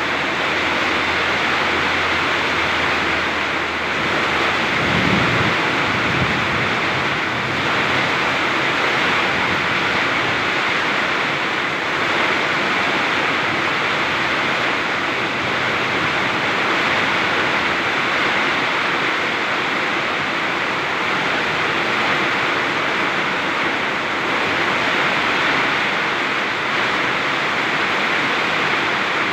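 Very heavy rain pouring steadily in a windstorm, with a low rumble in the first few seconds and a brief deeper surge about five seconds in.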